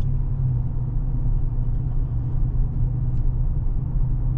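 Chevrolet Silverado pickup heard from inside the cab while driving: a steady low rumble of engine and road noise with no change in pitch.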